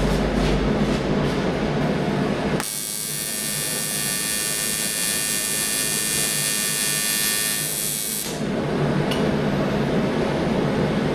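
AC TIG welding arc on aluminum, struck about two and a half seconds in and held for about five and a half seconds before cutting off: a steady high-pitched buzz from the alternating current, set to 110 Hz at about 60 amps on the pedal. The aluminum didn't really want to melt. A steady low hum runs before and after the arc.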